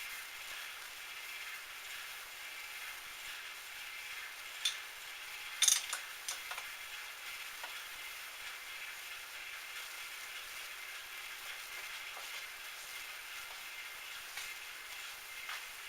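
Metal lathe running steadily with a faint whine and hiss, with a few sharp metallic clicks about five to six seconds in.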